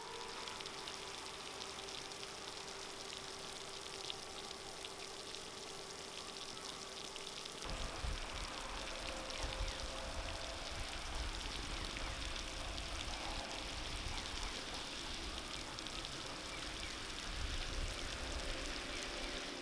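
Steady wet hiss and patter of a thawing, snow-covered street. About eight seconds in, a low rumble joins it.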